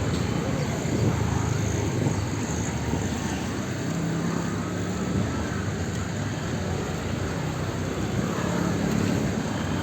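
Busy street traffic: a steady rumble of vehicle engines and road noise, with an engine hum standing out about four seconds in and again near the end.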